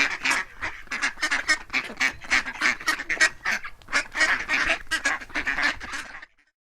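Ducks quacking in a rapid, unbroken series of short, harsh calls, several a second, cutting off about six seconds in.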